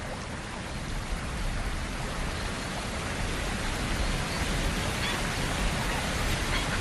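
Rushing water of a river running over falls: a steady wash of noise that slowly grows louder.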